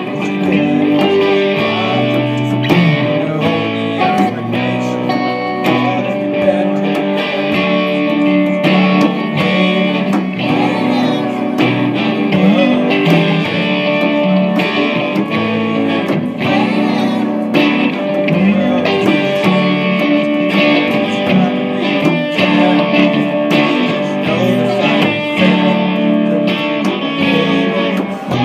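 Live guitar music: a plucked guitar playing a continuous piece of many quick notes.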